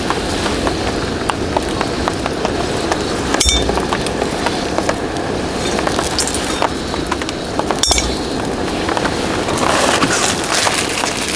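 Steady rain patter with the small cracks and pops of a wood campfire. Two sharp clinks that ring briefly come about three and a half seconds in and again about eight seconds in.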